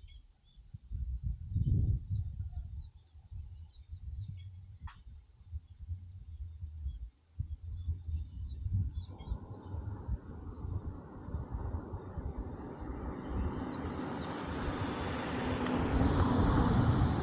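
Outdoor ambience: a steady high insect drone with scattered small bird chirps and a low rumble of wind on the microphone. A broad rushing noise builds from about halfway through and is loudest near the end.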